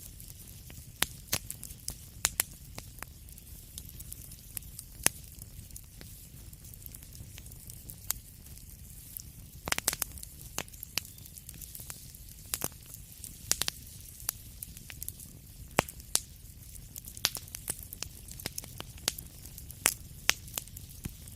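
Wood fire crackling in a fireplace: frequent sharp irregular pops and snaps over a low, steady rumble of burning.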